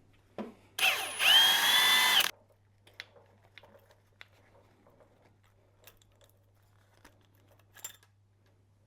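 Cordless power tool spinning up and running for about a second and a half, undoing a timing chain sprocket bolt. Faint metallic ticks and clicks of the parts being handled follow.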